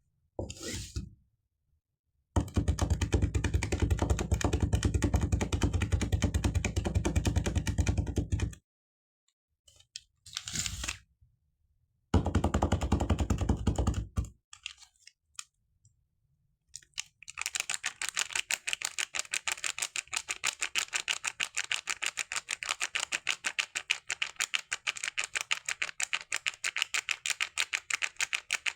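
Soap foam crackling close to the microphone in rapid, even clicks. A run of about six seconds is followed, after a pause, by a shorter run, and from a little past halfway the clicking goes on steadily and sounds thinner and crisper.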